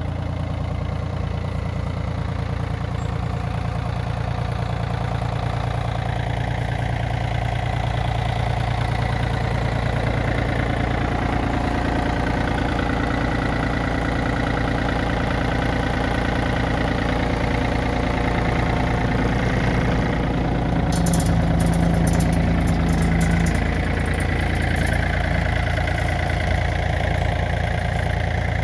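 Yanmar F215D compact tractor's three-cylinder diesel engine running steadily. It gets slightly louder for a couple of seconds about three-quarters of the way through, with some rattling.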